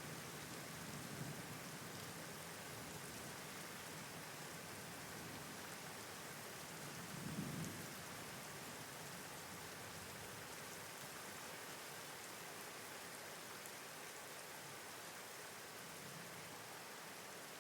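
Steady rain, an even hiss, with a brief low rumble of thunder about seven seconds in.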